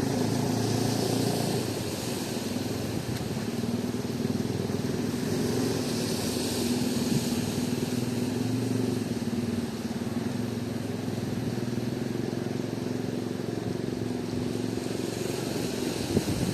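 An engine running steadily at an even pitch, with a steady hiss behind it.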